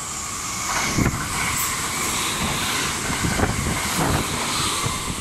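JR West 681 series electric train passing through the station without stopping. Its rushing wheel and running noise swells about a second in and holds, with repeated knocks of the wheels over the rail joints.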